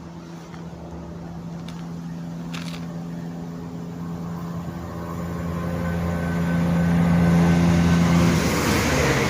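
CrossCountry Class 170 Turbostar diesel multiple unit passing at speed. Its engine hum grows steadily louder as it approaches, then about eight seconds in the hum drops in pitch and a rush of wheel and rail noise takes over as it goes by.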